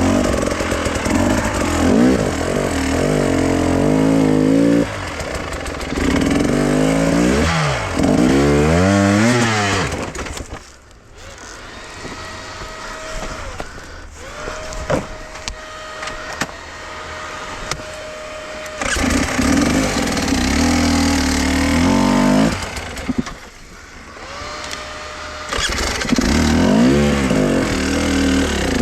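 A motor vehicle engine, most likely a motorcycle's, running and revving up and down as it is ridden. It eases off twice to a lower, quieter running with a faint steady whine, then picks up again.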